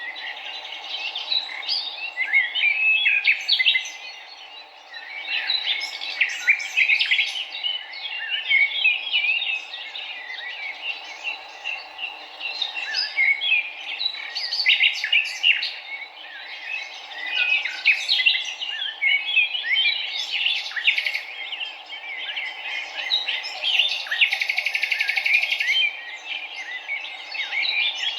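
Many wild birds chirping and calling over one another, with a steady low rush of running water beneath. A fast, evenly pulsed trill comes in about 24 seconds in and lasts about two seconds.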